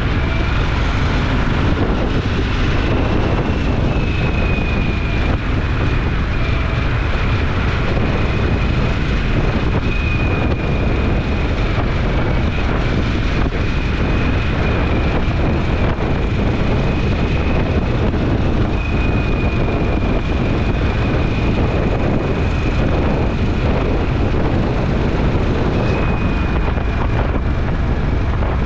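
Motorcycle cruising at a steady speed: engine and road noise mixed with wind buffeting the microphone, and a faint high whine that wavers slightly throughout.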